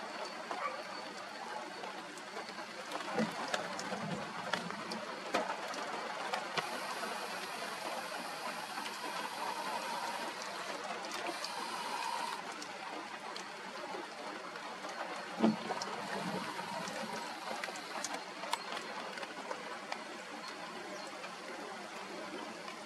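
Steady rain and wind hiss, with a few short low thumps from gusts or movement at the nest.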